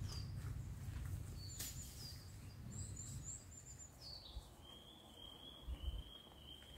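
Wild birds calling: a run of short, high chirps that fall in pitch, then one longer trill held at a lower pitch through the second half, over a faint low rumble.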